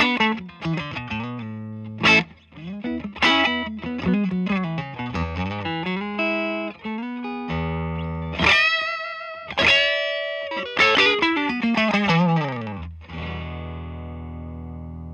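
Electric guitar played through a Songbird Redtail amp: single-note lead lines with string bends and a couple of chords left ringing. The tone is lightly overdriven, cleaned up by turning the volume knob down.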